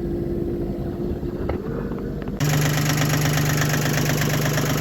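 Yanmar 3GM30F three-cylinder marine diesel running steadily, its pitch stepping up a little partway through. Near the middle the sound changes abruptly to a louder, steadier engine drone.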